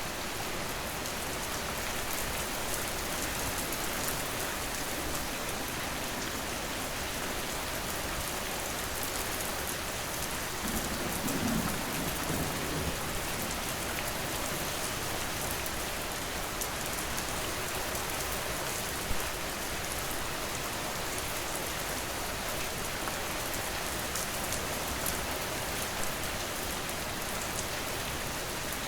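Steady rain falling, a dense even hiss with many fine drop ticks on top. About a third of the way through, a brief low rumble swells and fades.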